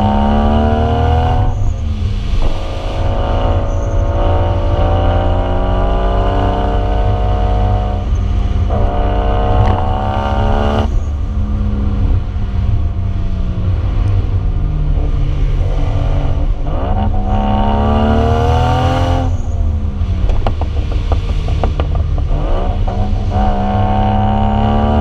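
1JZ inline-six engine of a Lexus IS300 running through a Vibrant aftermarket exhaust while the car is driven. The engine pitch climbs and then falls back several times, as with accelerating and shifting up.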